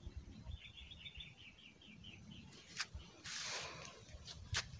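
A small bird gives a quick run of high chirps, about six a second, fading over about two seconds. After it come a couple of sharp clicks and a brief rustling hiss.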